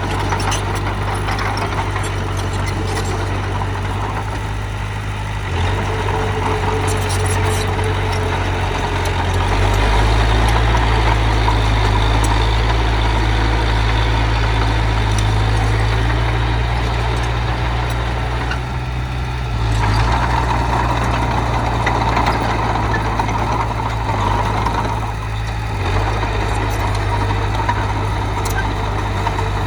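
Heavy machinery's diesel engine running steadily, its note and load shifting several times, loudest from about ten seconds in.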